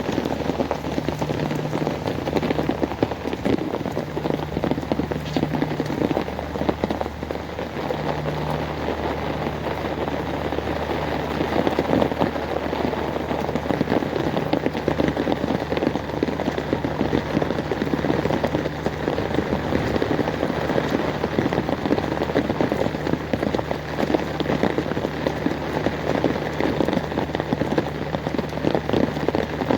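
Heavy rain falling steadily, a dense patter of drops striking hard surfaces, with a low steady hum underneath.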